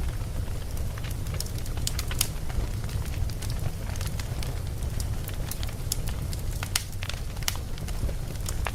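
Campfire burning: wood crackling and popping in irregular sharp snaps over a steady low rumble of the flames.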